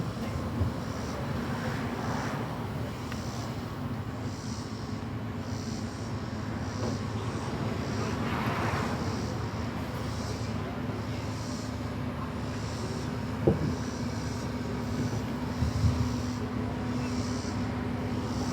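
A vehicle engine running steadily with a low hum, with two short knocks in the second half.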